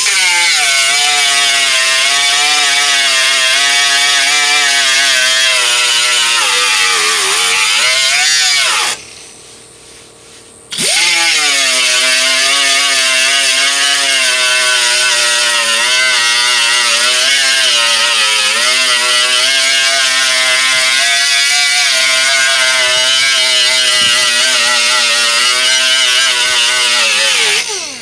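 Grinder with a 36-grit disc sanding paint off a steel tailgate down to bare metal: a steady high whine that wavers in pitch as the disc bears on the panel. It stops for about two seconds a third of the way in, then starts again.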